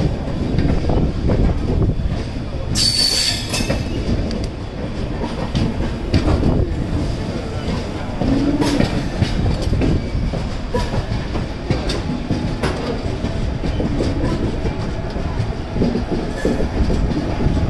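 Passenger train coaches rolling through a station, heard from the open doorway: a steady rumble of wheels on rails with repeated clicks over the rail joints and points, and a brief high squeal about three seconds in.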